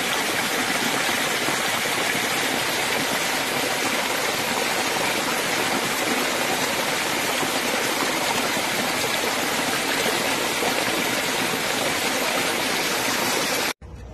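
Creek water rushing, a loud, steady noise that cuts off abruptly near the end.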